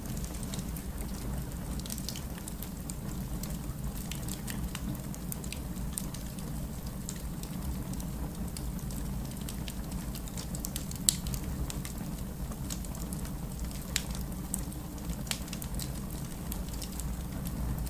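Wood fire crackling in a fireplace: a steady low rumble of the flames with irregular small snaps and pops, a louder pop about eleven seconds in.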